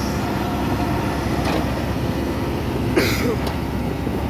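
Heavy vehicle's diesel engine running steadily, with a sharp click about three seconds in.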